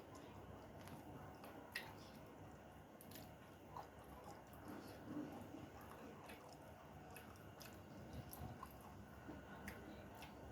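A person chewing food, faint, with soft wet mouth clicks and smacks scattered throughout, the sharpest about two seconds in.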